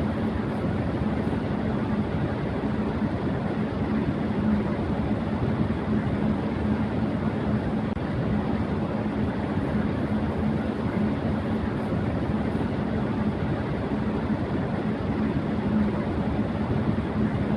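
Electric fan running at high speed: a steady rush of air with a steady low hum.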